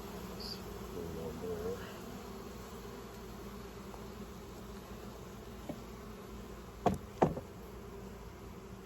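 Honey bees buzzing steadily around an open hive. Two sharp knocks come close together about seven seconds in.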